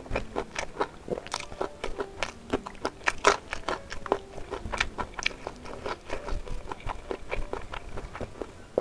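A person chewing a mouthful of spicy beef rib meat: irregular wet clicks and smacks, several a second.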